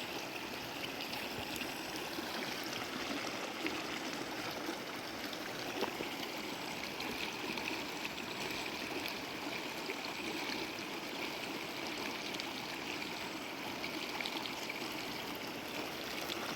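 River water flowing steadily, an even, continuous rush.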